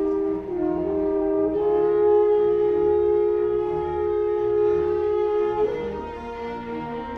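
Orchestral classical music: horns and strings sustain long held chords, moving to a new chord about a second and a half in and again near the end.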